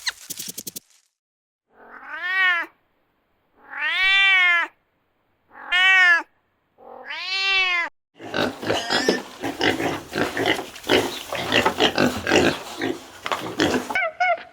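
A cat meowing four times, each meow rising then falling in pitch, spaced a second or two apart. About eight seconds in it gives way to a busier, noisy stretch of overlapping sound that lasts about six seconds.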